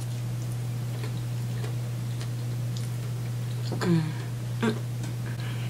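A person chewing a bite of chicken wing close to the microphone: faint wet clicks of chewing over a steady low hum. About four seconds in come two short voiced sounds from the mouth, the first falling in pitch.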